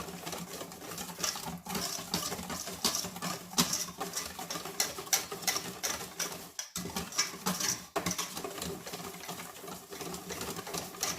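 Puto batter being stirred by hand in a bowl: a utensil clicks rapidly and steadily against the bowl, with a brief pause about two thirds of the way through.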